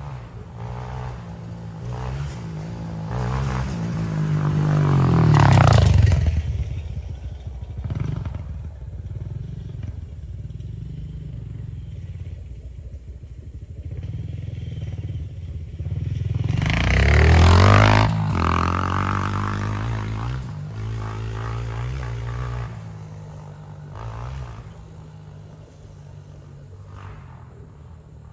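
Honda CRF125F big-wheel dirt bike's single-cylinder four-stroke engine under way while riding. It is revved hard twice, about six seconds in and again near eighteen seconds, its pitch climbing and then dropping, with lighter throttle in between.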